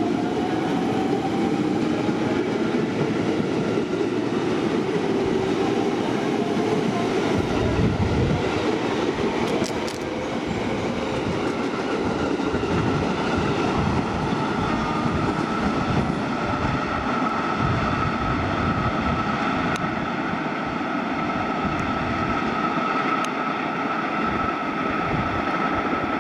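Freight train wagons rolling past close by with a steady rumble and clatter of wheels on rail. A steady high whine from the wheels sets in about halfway through.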